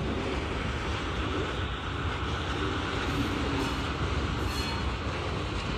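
Freight train rolling on the rails, a steady rumble with some clicking of wheels.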